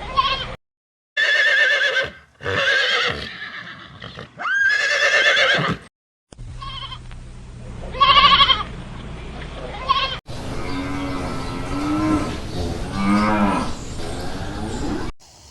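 Farm animals calling in a string of short spliced clips: several bleats with abrupt cuts between them, then a lower, wavering call lasting several seconds from about ten seconds in.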